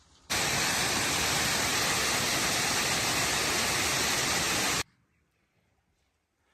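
A loud, steady rushing noise, like water, that starts suddenly and cuts off suddenly after about four and a half seconds.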